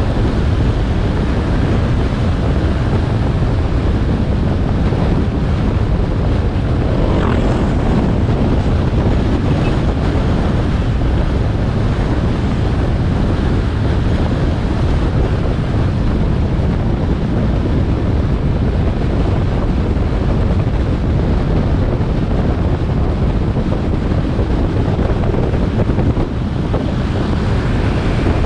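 Wind rushing over an action camera's microphone on a moving motorbike, a steady low rumble mixed with the bike's engine and road noise, with a brief louder rush about seven seconds in.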